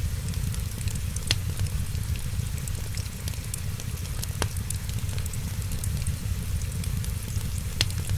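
Wood fire burning with a steady low rumble and scattered sharp crackles and pops, three of them louder, about a second in, midway and near the end.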